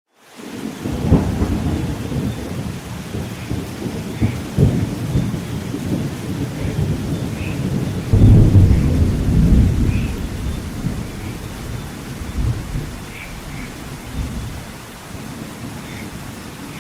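Rolling thunder over steady rain. The rumble swells in the first second, is loudest about eight seconds in, then dies away toward the end while the rain carries on.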